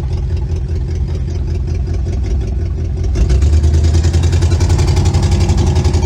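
1962 Chevrolet Impala's 283 small-block V8 running through Cherry Bomb mufflers while driving, getting louder about three seconds in.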